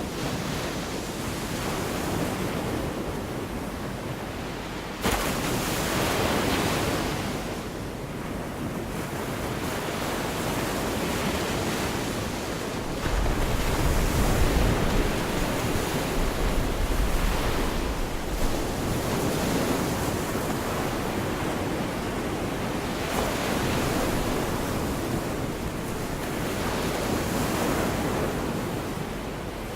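Gulf of Mexico surf: waves breaking and washing up the beach in repeated swells, one crashing in suddenly about five seconds in. Wind rumbles on the microphone for a few seconds around the middle.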